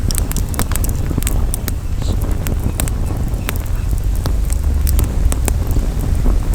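Wood campfire crackling, with many sharp irregular pops over a steady low rumble.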